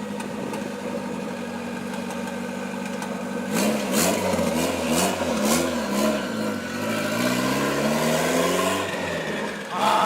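Turbocharged Honda B20V four-cylinder in an Acura Integra, idling steadily and then revved. About three and a half seconds in, it is blipped up and down several times, with sharp crackles at the high end. Near the end the revs climb for about two seconds and then drop.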